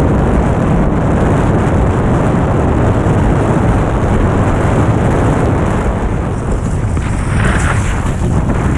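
Strong wind buffeting the microphone as a loud, steady low rumble, with a brief hiss about three-quarters of the way through.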